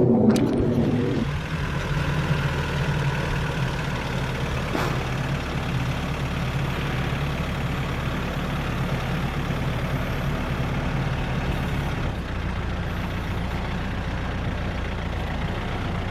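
The engine of the lifting machine idling steadily, with a single sharp knock about five seconds in.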